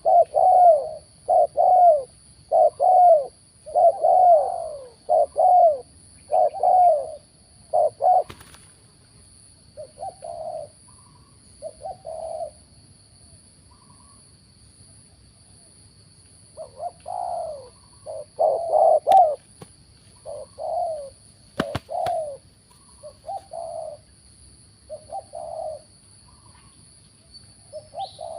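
Spotted doves cooing: runs of short coos, about two a second, thinning out in the middle and picking up again after a few seconds.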